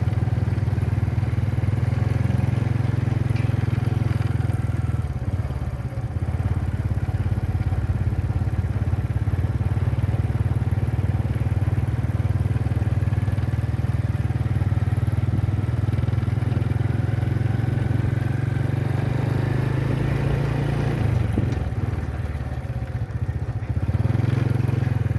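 A motor vehicle's engine running with a steady low drone, easing off slightly about three quarters of the way through.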